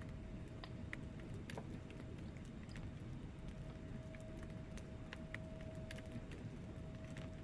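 Wood fire burning in a fireplace: scattered sharp crackles and pops over a steady low rumble of flames. A faint, thin steady tone comes and goes.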